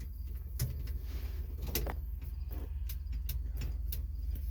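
Scattered mechanical clicks and clunks, about half a dozen, from a truck's manual 4-speed gear lever being worked in its gate inside the cab, over a steady low rumble.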